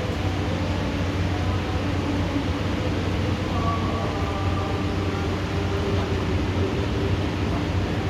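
Heavy rain pouring steadily during a thunderstorm, an even wash of noise with a low steady hum beneath it.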